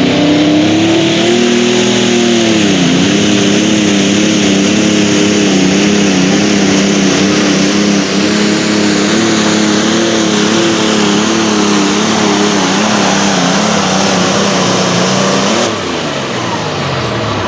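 Pulling tractor's engine running flat out under load, pitch wavering steadily, with a brief dip in revs about two and a half seconds in. Near the end the revs fall away as it is throttled down.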